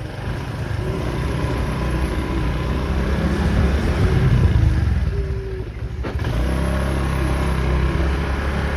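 Motorcycle engine running with road and wind noise, dipping briefly about six seconds in.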